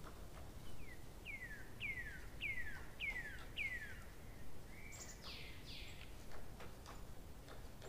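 A bird calling: a run of six quick whistled notes, each sliding downward, a little under two a second, then a few higher downward-sliding notes just after the middle. Faint scattered ticks and low background noise run underneath.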